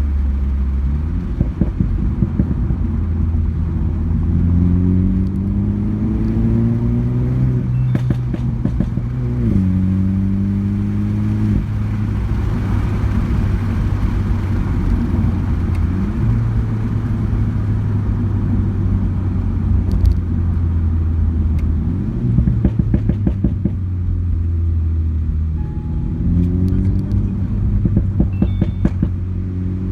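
2018 Mini John Cooper Works (F56) turbocharged four-cylinder with a custom pop-and-bang exhaust, accelerating through the gears with the engine note rising and dropping at each shift, between steadier cruising stretches. Bursts of exhaust crackles and pops come on lift-off, several times, most about two-thirds of the way in and near the end.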